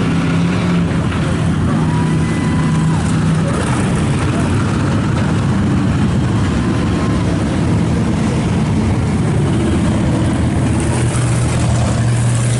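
IMCA Hobby Stock race car engines running loud and steady, their pitch shifting up and down as the cars drive around.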